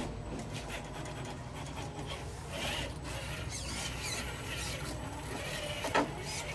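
Electric motor and gears of a Traxxas TRX-4 RC rock crawler whining in faint rising and falling tones as it crawls over rocks, with one sharp knock about six seconds in.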